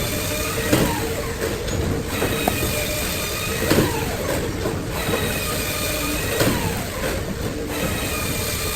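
Split logs burning in a fireplace: a steady rush of flames with a few sharp pops and thin, high whistling tones that slowly fall in pitch.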